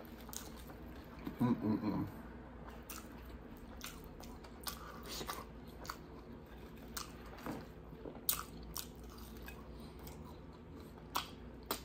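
Close-miked eating: a person biting and chewing sesame chicken wings, with scattered sharp clicks and wet mouth noises.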